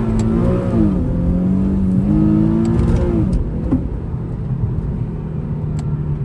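VQ-series V6 engine pulling hard from inside the car, its pitch climbing and dropping back twice as it revs and shifts, then settling into a steadier, lower drone a little past halfway.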